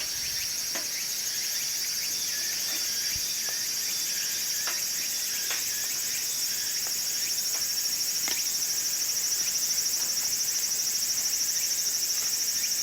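A steady, high, pulsing chorus of insects trilling, with sparse small pops and crackles of wood burning in a wood stove.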